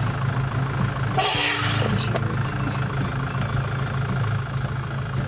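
Car engine idling with a steady, evenly pulsing low hum. A brief rustling noise comes about a second in.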